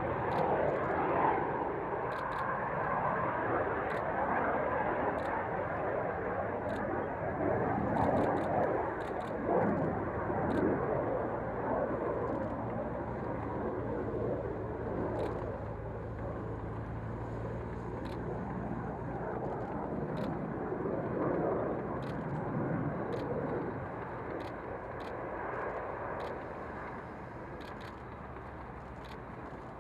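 Aircraft engine noise at an airfield, a broad rumble that slowly fades away over the half minute, as of an aircraft moving off into the distance. Faint short ticks come and go high above it.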